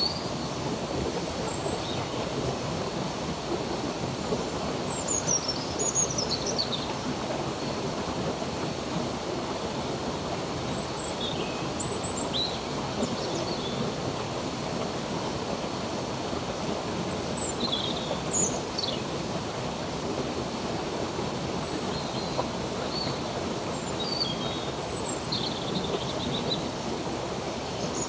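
Steady rush of a flowing stream, with scattered short bird chirps and whistles over it.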